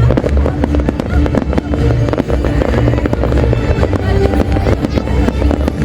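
A big fireworks display going off non-stop: dense, rapid bangs and crackles with deep booming shells, over music.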